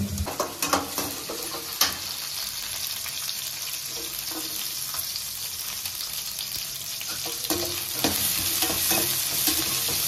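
Sliced onions and garlic frying in hot oil in a stainless steel kadai, sizzling steadily while a metal slotted spatula stirs them. A few sharp knocks come in the first two seconds.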